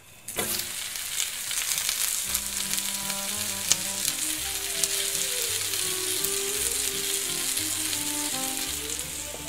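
Asparagus, mini sweet peppers and sun-dried tomatoes sizzling as they sauté in butter and garlic in a skillet. The sizzle comes up suddenly just after the start as the lid is lifted off the pan. Background music with a bass line plays underneath.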